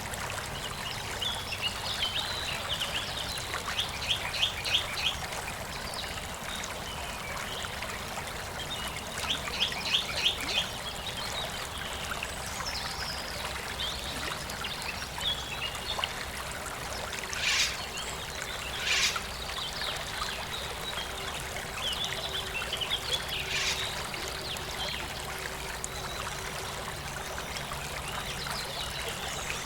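Water trickling steadily in a stream, with birds calling over it: rapid trilled phrases about four seconds in and again around ten seconds, and two short sharp calls a little past the middle.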